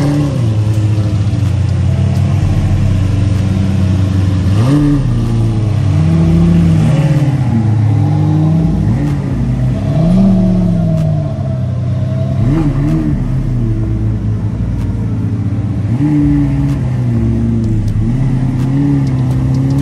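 Lamborghini Diablo VT's V12 idling and being revved in several short throttle blips, the pitch rising and dropping back to idle each time.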